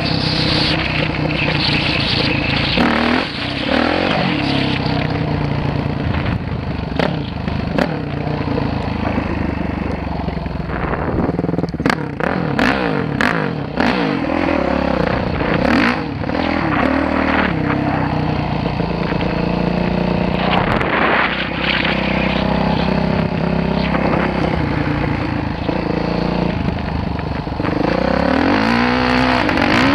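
Dirt bike engine running and revving, its pitch rising and falling again and again as it is ridden, with scattered sharp knocks and clatter in the middle.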